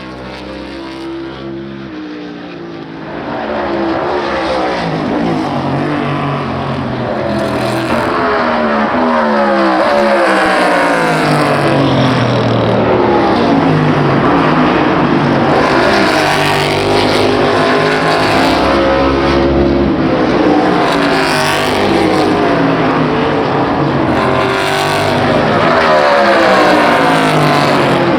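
NASCAR stock cars' V8 engines at full throttle as car after car races past, each one's pitch falling as it goes by. It gets louder about three seconds in and stays loud and dense.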